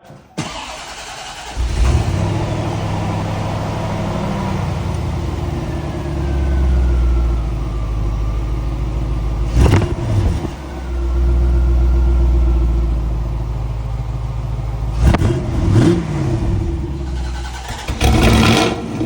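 C4 Corvette ZR1's LT5 V8 starting and settling into an idle through its exhaust, after a short cranking sound. It is revved in quick blips, once near the middle and twice more later, with a louder burst near the end.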